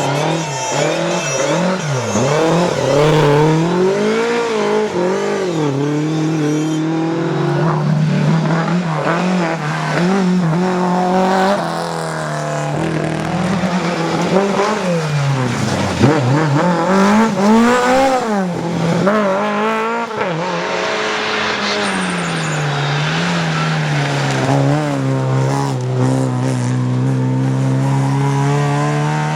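Rally car engine revving hard at competition pace, its pitch climbing and dropping again and again through gear changes and braking, with some tyre noise.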